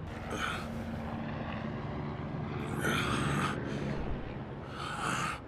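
Anime soundtrack sound effects: a steady low engine-like hum with four short bursts of hissing noise over it.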